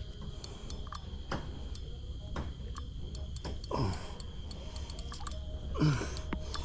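Irregular clicking of a fishing reel and tackle while a big catfish is fought on the line, with two short, steeply falling groans from the straining angler a little past the middle and near the end. A steady high whine runs underneath.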